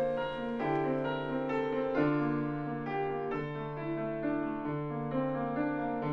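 Solo piano playing a slow, gentle melody over a low bass note restruck about every second and a half.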